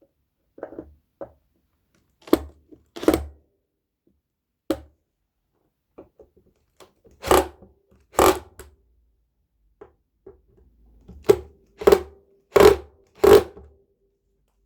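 About ten irregular knocks and thuds, with a cluster of four louder ones near the end, as a wooden speaker cabinet and its parts are handled.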